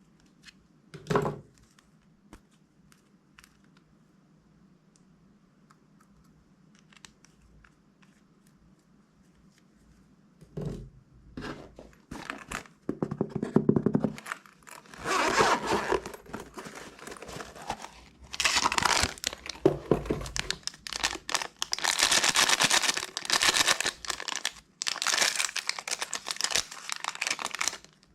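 Plastic bags crinkling and tearing as they are handled and opened, in repeated loud rustling stretches. The first stretch comes after a quiet start broken only by a few small clicks.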